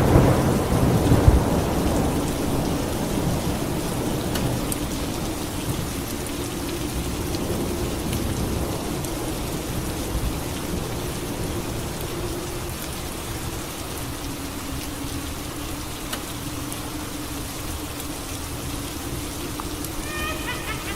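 Steady rain falling, with a clap of thunder at the start that rumbles away over the next couple of seconds. A faint low drone hums underneath, and a brief high-pitched sound comes near the end.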